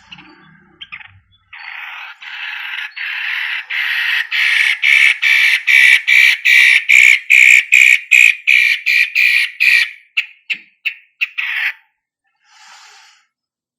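Long-tailed shrike (cendet) giving a long series of harsh, rasping calls, about three a second, growing steadily louder. Near the end it breaks into shorter, quicker notes and stops.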